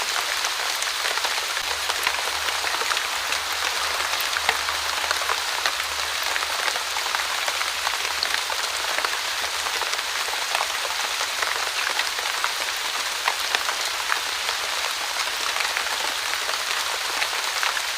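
Steady light rain, a drizzle, falling on a surface: an even hiss dotted with many small drop ticks.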